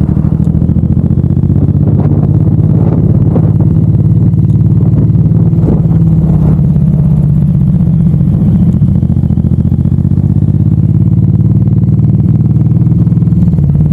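Suzuki M109R's big V-twin engine running at a steady cruising pitch while the motorcycle is ridden, heard from a handlebar-mounted camera.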